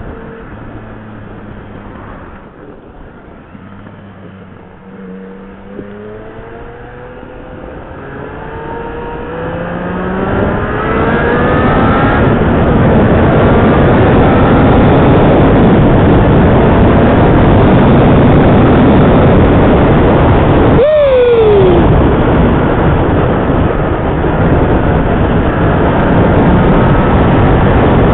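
Motorcycle accelerating hard, the engine's pitch climbing again and again through the gears, then loud wind rush over the helmet microphone at speed for the rest of the time, with one sharp drop in engine pitch about two-thirds of the way in.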